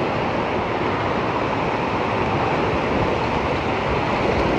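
Rushing river water, a steady loud noise with no distinct events.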